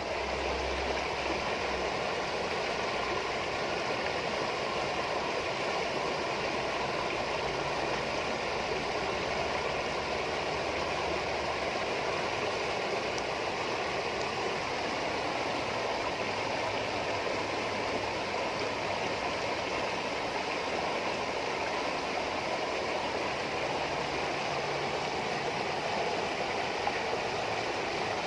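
Running water trickling and babbling steadily, a continuous splashing flow with no breaks.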